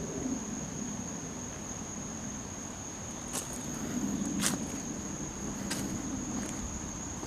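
A steady, high-pitched insect drone, like a cricket's, over a low background rumble, with a few sharp crunching footsteps in the second half.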